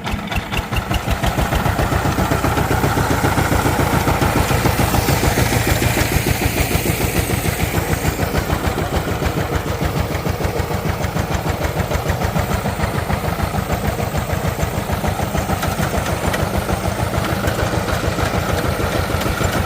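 Diesel engine of a power tiller running with a fast, even knocking beat, picking up over the first two seconds after starting and then holding steady.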